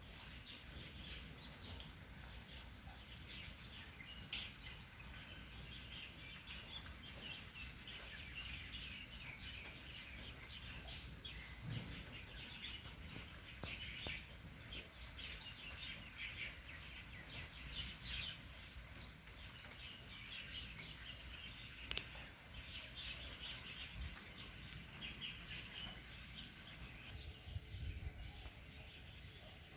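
Small birds chirping and twittering continuously, with scattered sharp taps.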